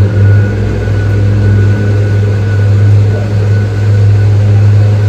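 Water shuttle boat's engine running steadily, a loud, constant low hum with a faint high whine above it.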